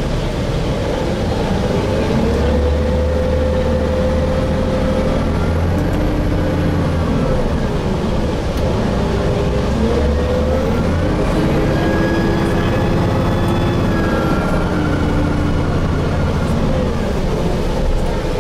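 Interior sound of a Gillig Phantom diesel transit bus with a Voith transmission under way. There is a low steady drone, and twice a pitched whine rises as the bus speeds up, holds, then falls away as it slows.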